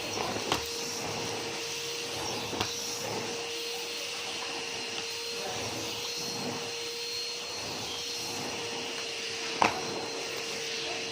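Numatic James tub vacuum cleaner running steadily with a constant motor whine, picking up a test mess. A few sharp clicks of debris rattling up the hose come through, the loudest near the end.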